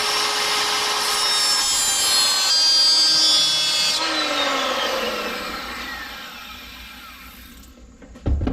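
Handheld power tool working on a broken bolt in an engine head, running with a steady whine that shifts about four seconds in, then released and spinning down with a falling whine. A short knock near the end.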